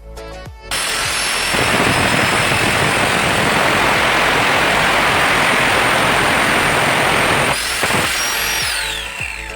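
A power tool starts suddenly and runs at full speed with a loud rushing noise and a high whine. Near the end its pitch rises briefly, then falls away as it spins down.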